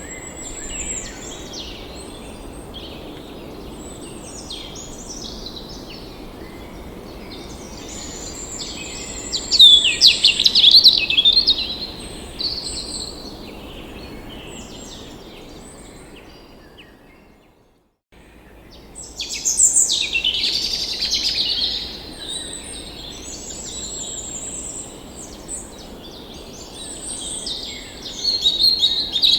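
Several birds singing and chirping at once, quick high chirps and trills over a steady low hiss of outdoor background noise. A bit over halfway through the sound fades away to a moment of silence, then the birdsong comes straight back.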